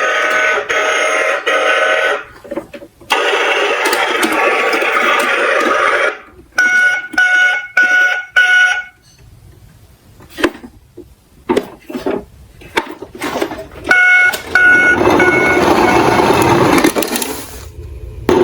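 Plastic toy garbage trucks rolling and clattering down a slope, with sharp knocks as they tumble. Two short runs of even electronic beeps, about two a second, come in the middle and again near the end.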